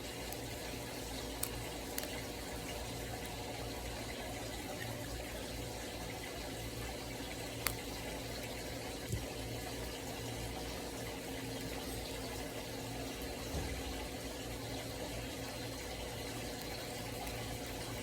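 Steady background hum and hiss, with a few sharp light clicks and taps from plastic toy packaging being handled.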